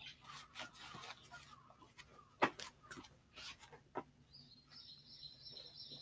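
Faint outdoor garden sound: scattered short clicks and taps, one louder tap about two and a half seconds in, then a high, warbling bird trill from about four seconds in to the end.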